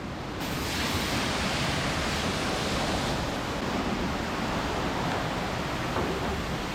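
Steady hiss of water spraying, starting about half a second in.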